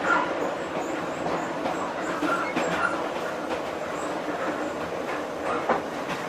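Vietnam Railways train running on the track: a steady rolling rumble of wheels on rail with a few sharp clacks over rail joints, the loudest near the end.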